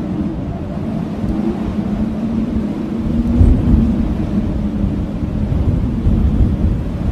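Blizzard wind howling as a steady, deep rumbling drone, swelling briefly a little past halfway.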